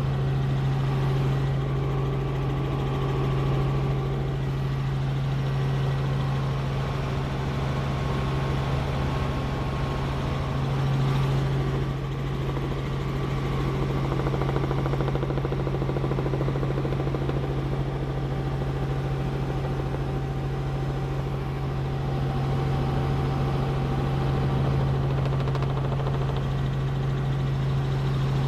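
Helicopter in flight: a steady engine and rotor drone with a strong low hum that holds even throughout.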